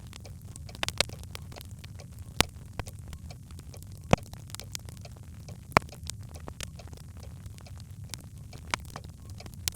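Birch logs burning in a fireplace: a steady low rumble with irregular crackles and sharp pops, the loudest about a second, two and a half, four and six seconds in.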